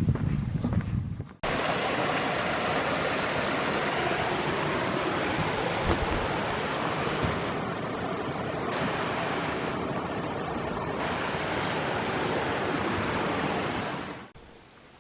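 Steady, loud rush of water, like a waterfall or fast stream, that cuts in about a second and a half in and stops abruptly near the end.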